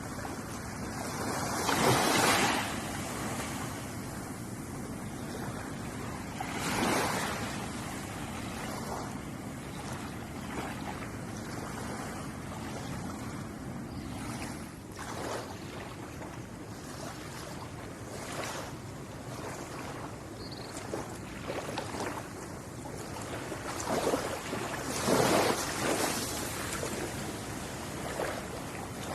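Ocean waves washing against the shore: a steady hiss of surf, with a wave breaking louder about two seconds in, another around seven seconds, and a bigger surge near the end.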